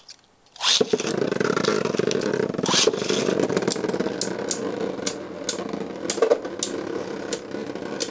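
Beyblade Burst spinning tops launched into a plastic stadium about half a second in, then spinning with a continuous rattling whir, broken by repeated sharp clacks as they strike each other and the stadium wall.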